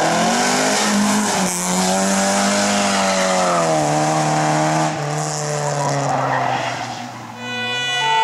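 Historic rally car engine revving hard, its note climbing and dropping several times as it changes gear and goes through a corner, then fading near the end.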